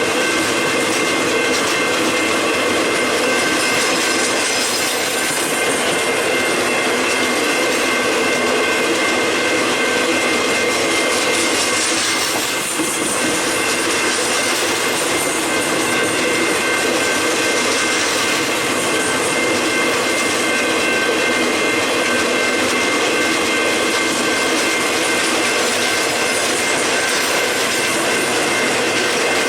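Freight train rolling past: the steady rumble and rattle of the cars on the rails, with a continuous high-pitched squeal from the wheels.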